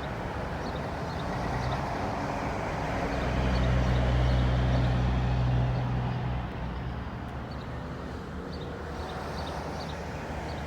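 A motor vehicle's engine running at close range, a steady low hum that swells louder for about three seconds in the middle, then fades back.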